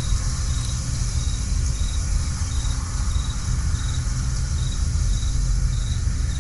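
A cricket chirping steadily, a short high trill about every two-thirds of a second, over a steady low rumble and hiss.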